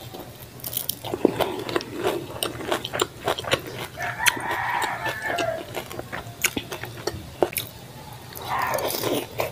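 Close-miked eating sounds: wet chewing with many short lip smacks and mouth clicks as fried lumpiang shanghai dipped in sauce is bitten and eaten by hand, with a longer wet slurping sound about four seconds in.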